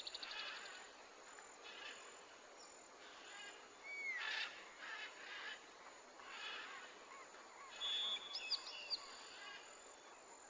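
Faint outdoor nature ambience: small birds chirping and trilling at intervals, with a quick trill at the start, a few short falling whistled calls, and a cluster of high chirps near the end.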